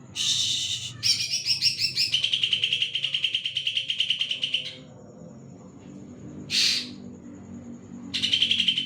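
Green leafbird (cucak ijo) in full song. A dense burst of song opens into a long, fast trill of rapidly repeated notes lasting about four seconds. After a pause there is a short burst, and another fast trill starts near the end.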